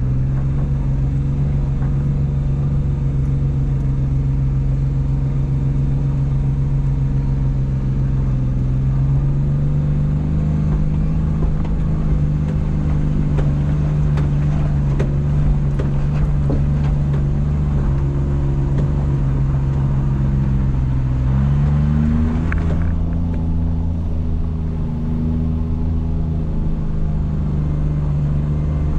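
Suzuki Jimny JA11's turbocharged three-cylinder engine running at low, steady revs as the jeep crawls along a dirt trail, its pitch stepping up about 21 seconds in. Scattered clicks and knocks through the middle stretch as it goes over rocky ground.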